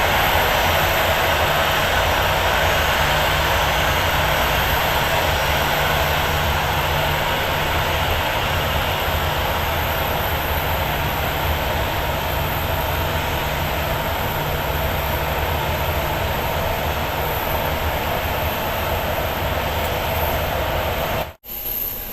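Airliner engines running loud and steady, slowly fading, with a sudden brief cutout near the end.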